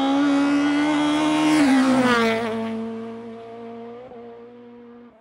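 Rally car engine held at steady high revs sweeping past, its pitch dropping about two seconds in as it passes, then fading away.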